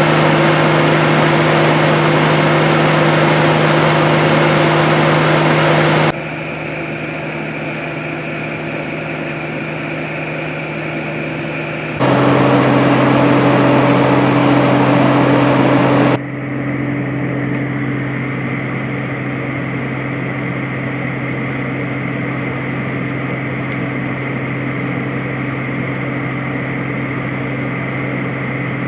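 Workshop machinery running with a steady hum over a hiss. The level and pitch of the hum change abruptly three times, a few seconds apart.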